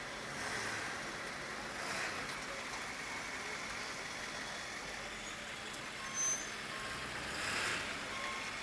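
Street traffic noise with vehicles passing, a short sharp high beep about six seconds in, and faint repeated short beeps near the end, like a truck's reversing alarm.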